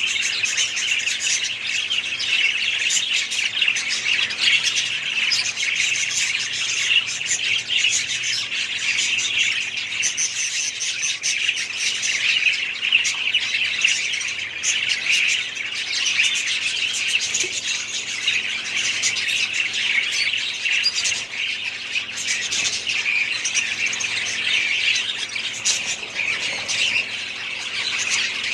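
Many caged budgerigars and other small parrots chattering and squawking together, a continuous dense chatter with no pauses.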